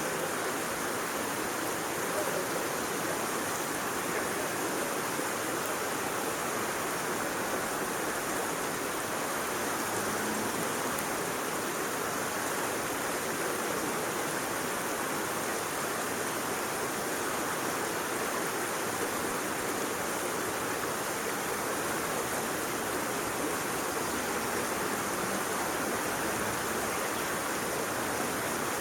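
Steady rushing noise, like flowing water from a stream, even throughout with no breaks.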